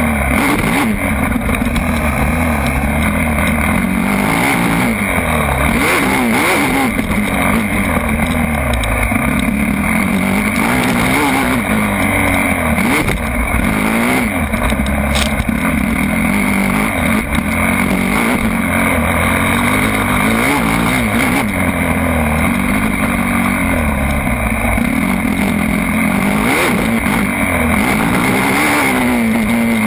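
Motocross bike engine revving up and down over and over, its pitch climbing and dropping every second or two as the rider works the throttle around the track.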